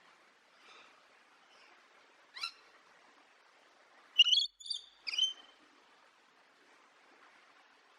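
A bird calling in short, high, sharp chirps: a single call about two and a half seconds in, then a quick loud cluster of several calls between about four and five and a half seconds, over a faint steady hiss.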